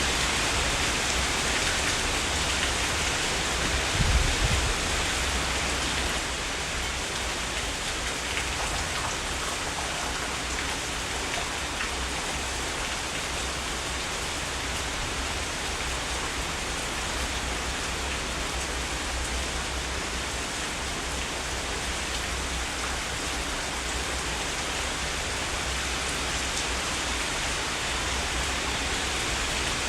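Heavy rain falling in a steady, even downpour, with a brief low thud about four seconds in.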